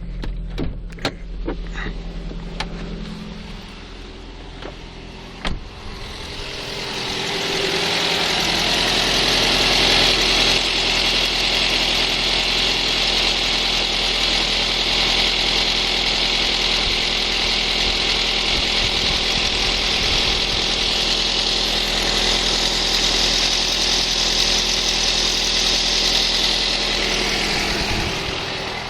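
Ford Focus 1.8-litre engine idling after a cold start, with a small whistle from the alternator belt area. The owner suspects the belt tensioner pulley or the alternator. A few clicks come first; the sound grows louder about seven seconds in and then holds steady.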